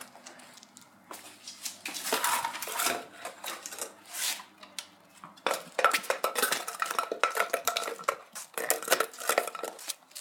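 Rapid metallic clinking and rattling in dense flurries, starting about two seconds in.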